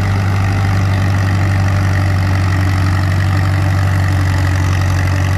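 Antique Oliver 60 tractor's engine running steadily at a constant pitch, loud and unchanging, as the tractor waits for its pull.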